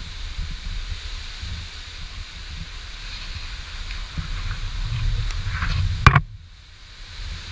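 Hurricane-force wind gusting and buffeting the microphone with a steady low rumble, rising toward a sharp crack about six seconds in, after which the sound suddenly drops away for about a second.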